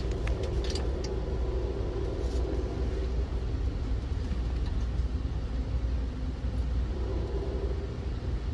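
Passenger train rolling along at speed, heard from on board: a steady low rumble of wheels on the rails, with a few short clicks and rattles in the first second.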